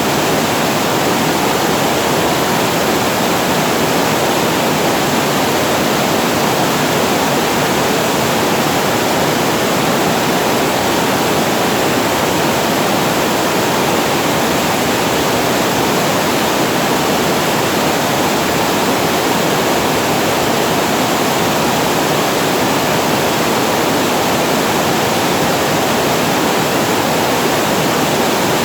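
Water pouring over a reservoir weir, a loud, steady rush of falling water with no breaks.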